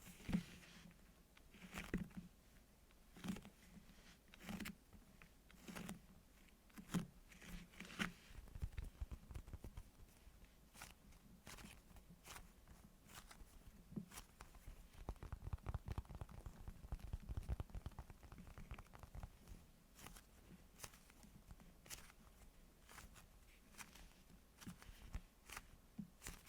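Hands squeezing and handling squishy toys, faint: soft crinkling and squishing strokes about once a second at first, then a longer stretch of low rustling and scattered light ticks.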